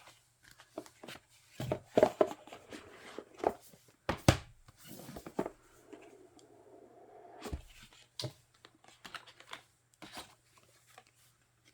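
Hands handling album packaging, paper inserts and photocards: rustling and tearing sounds with scattered taps and knocks, and a longer stretch of rubbing or sliding in the middle.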